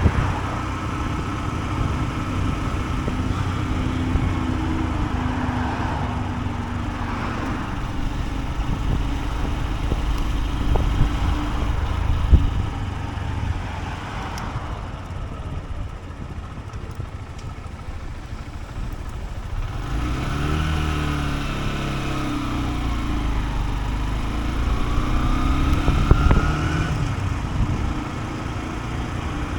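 Honda CB125F's single-cylinder engine running on the move: its pitch rises and falls with the throttle, drops off for a stretch in the middle, then climbs again in a couple of rising pulls near the end. A steady low rumble of wind and road noise sits underneath.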